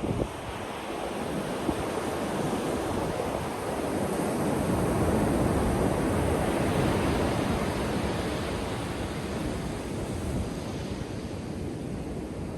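Ocean surf breaking on a beach, a continuous wash of waves that swells about halfway through and then eases off.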